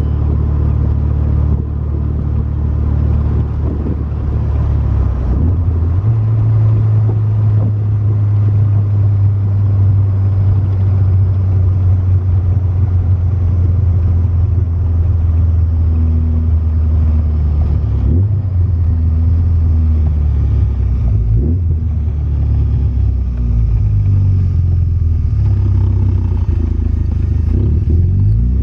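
1988 VW Cabriolet's built 2.1-litre 16-valve four-cylinder engine with headers and full exhaust, running steadily while the car is driven. The engine note steps up about six seconds in and rises and falls several more times later on.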